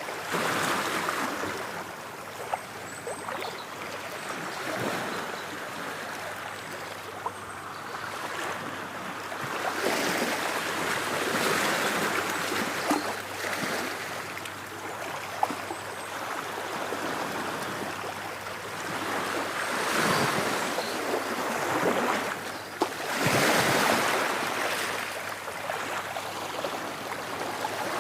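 Ocean waves breaking and washing on a shore, the surf swelling and falling back every few seconds, with a few small sharp clicks.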